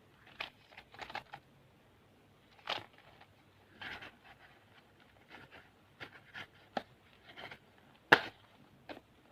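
Candy packets and plastic being handled: an irregular run of short taps, clicks and crinkles, the loudest a sharp click about eight seconds in.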